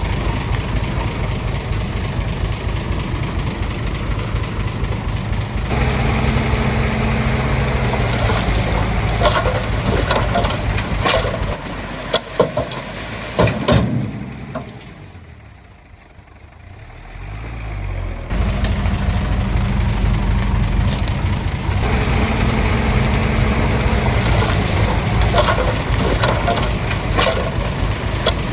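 Heavy diesel construction machine engine running, with several sharp metal clanks near the middle. The sound fades down briefly about halfway through and then comes back at full strength.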